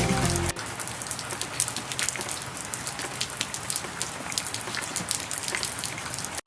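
Food frying on a cast-iron cauldron-lid griddle over a wood fire: a steady sizzle full of sharp pops and crackles. Background music cuts off about half a second in.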